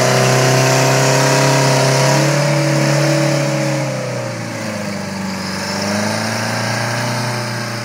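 Heavy diesel engine of earthmoving machinery running hard. Its pitch falls from about two seconds in, bottoms out around five seconds, then rises again briefly.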